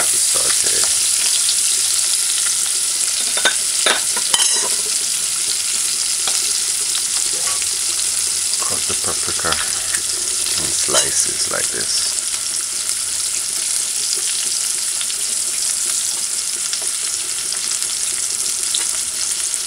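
Onions and saltfish sizzling in hot oil in a metal pot, a steady frying hiss. A few short knocks and scrapes come about four seconds in and again around ten to twelve seconds in.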